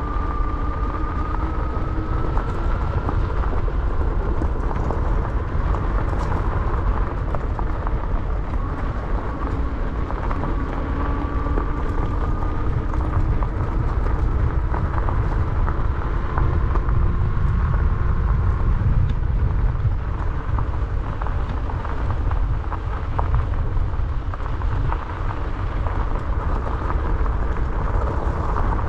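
Wind buffeting a GoPro's microphone on a moving e-bike, with the bike rattling over a dirt trail and a faint motor whine that rises in pitch several times.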